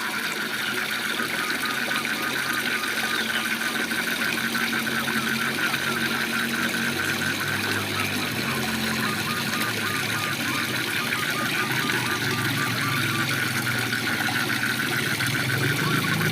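Waterfall rushing steadily, with frogs calling in rapid, even pulses over it. A low drone comes in and grows louder in the second half.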